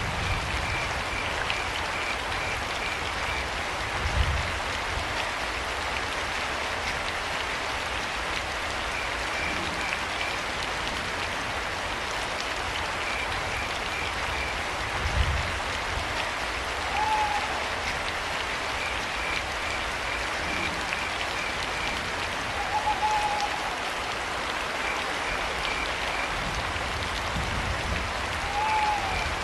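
Steady rain with short trains of evenly pulsed cricket chirps, and a short owl hoot three times in the second half. Two brief low thuds stand out, about four seconds in and near the middle.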